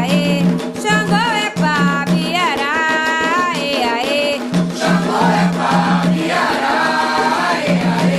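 Candomblé song for Xangô over a steady drum beat: a single lead voice sings a line, then a chorus of voices answers from about halfway through.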